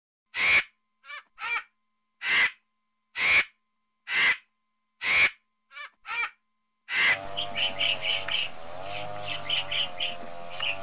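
Bird calls: a series of about nine harsh, raspy calls, each under half a second, separated by silence. About seven seconds in, these give way to quicker runs of short, high calls over a steady background.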